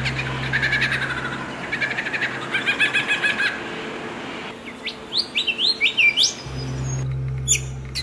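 Small songbirds chirping and singing. There are quick repeated trilled notes in the first half, then a run of sharp rising chirps about five seconds in. A steady low hum lies underneath; it drops out partway through and returns near the end.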